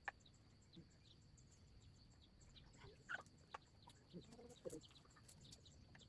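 Near silence: faint background hiss with a few brief, faint short sounds a few seconds in.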